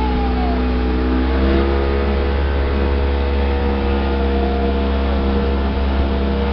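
Speedboat engine running at speed, its pitch stepping up a little about one and a half seconds in, over a steady low rumble.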